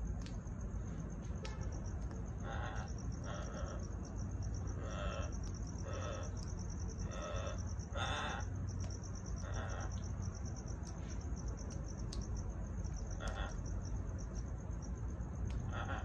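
Short bird calls, about ten of them, mostly bunched in the first half with a couple more near the end. They sit over a steady, high-pitched pulsing buzz and a low hum.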